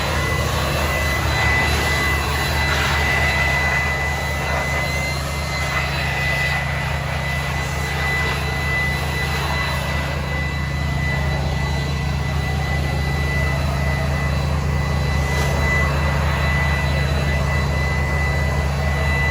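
Electric air blower drying off a vehicle: a steady high whine over a rush of air.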